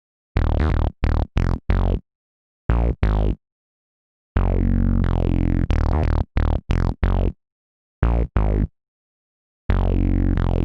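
Synthesizer chords played as short stabs in small groups, with a few longer held chords and full silences between phrases. Each chord opens bright and quickly turns duller, like a closing filter sweep.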